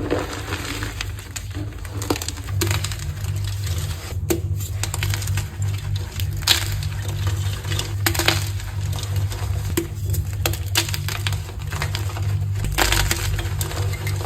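Dyed gym chalk blocks being crushed: a run of irregular crisp crunches and crumbling crackles. A steady low hum sits underneath from a couple of seconds in.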